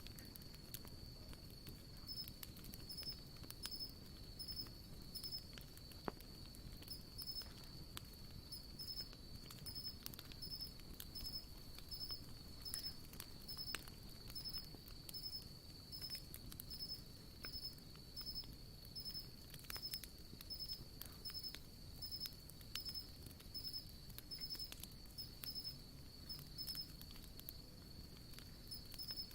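Campfire crackling softly with scattered sharp pops, over a steady high insect trill and insects chirping in a regular rhythm, about twice a second.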